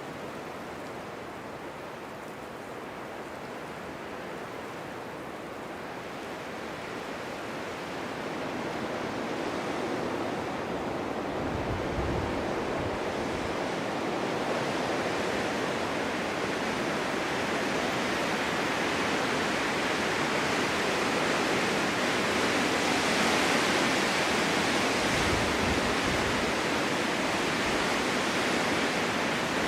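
Winter wind blowing in a steady rushing hiss that builds into a stronger gust over the second half. A couple of brief low rumbles of wind on the microphone come about twelve and twenty-five seconds in.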